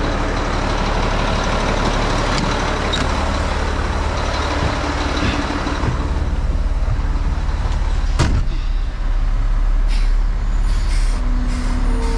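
Roll-off truck's diesel engine running, louder and noisier for the first six seconds and then easing back. A single sharp knock comes about eight seconds in.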